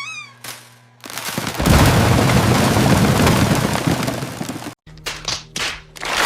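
A cartoon sound effect: a short falling whistle tone, then a loud explosion-like rumble lasting about three and a half seconds that cuts off abruptly. A few short whooshing bursts follow.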